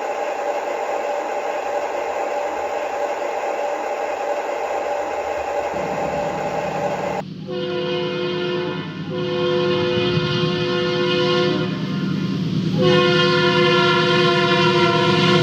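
Train rumbling steadily, then the locomotive's air horn sounds a chord in long blasts starting about seven seconds in, with short breaks between them.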